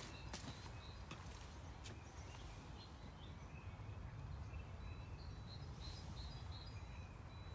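Birds calling faintly with short, high chirps, repeating on and off, over a steady low rumble; a few clicks near the start.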